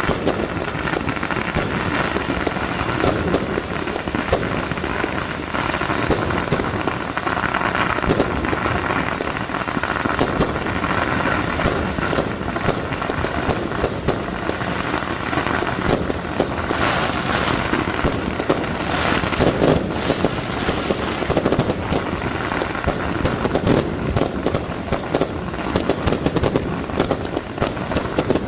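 Fireworks and firecrackers going off in a dense, continuous crackle of rapid pops, with no pause.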